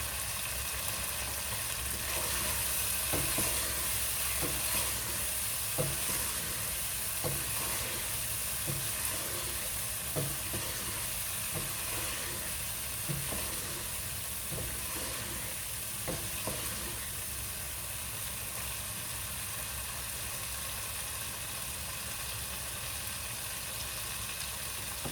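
Chicken and tomato masala sizzling in a pan as it is stirred in with the dried fenugreek, the spoon knocking against the pan about once a second. The knocks stop about two-thirds of the way through, leaving a steady sizzle.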